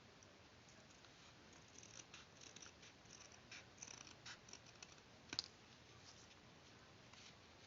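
Faint small clicks and scratching from paper-craft work, paper being cut and handled, with one sharper click about five seconds in.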